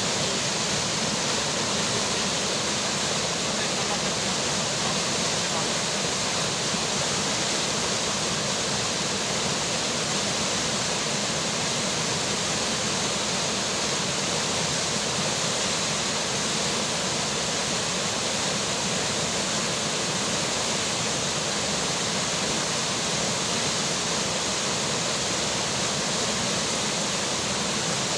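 River water rushing steadily, with rainfall, as an even, unchanging hiss of water.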